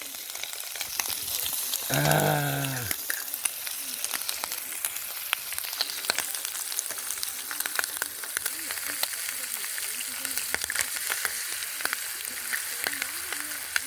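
Free-range eggs frying in a pan: a steady sizzle with many small crackling spatter pops.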